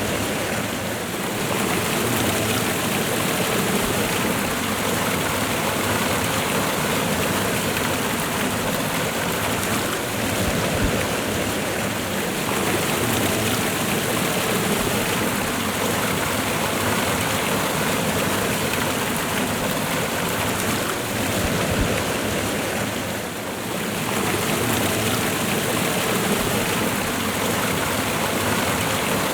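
Waterfall and running river water, a steady, even rush of falling water with a brief dip in loudness about 23 seconds in.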